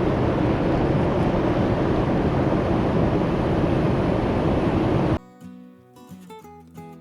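Wind buffeting the microphone: a loud, rough rumble that stops abruptly about five seconds in, leaving quiet acoustic guitar music.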